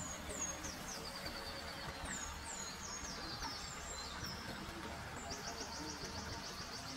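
Songbirds calling: a string of short, high, downward-sweeping whistled notes, then near the end a fast, high trill that lasts about a second and a half.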